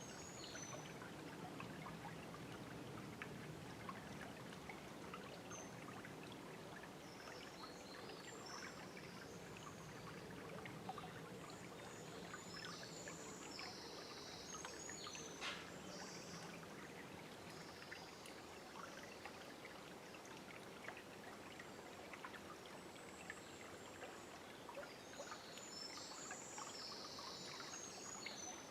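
A forest river flowing and babbling steadily, with small birds singing short high phrases now and then over the water, most around the middle and near the end.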